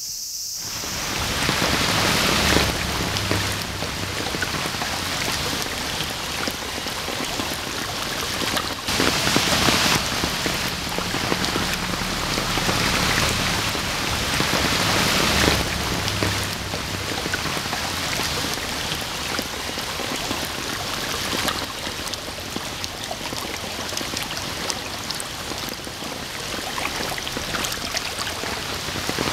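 Steady dense hiss of heavy rain falling, with the rush of a swollen irrigation canal running high after a downpour. It swells louder a few times.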